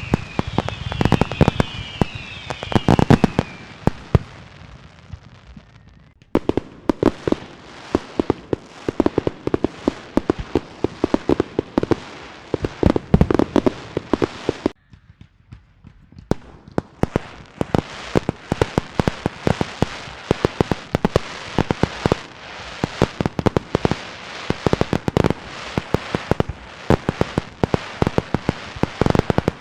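Fireworks going off: a dense, rapid run of firecracker bangs and crackling, with a few short falling whistles in the first few seconds. The barrage drops off briefly twice, once about six seconds in and again around the middle, then carries on.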